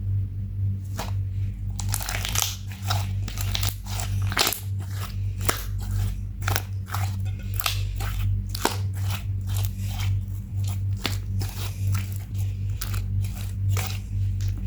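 Slime being squished and kneaded by hand: an irregular run of sharp wet clicks and pops over a steady low hum.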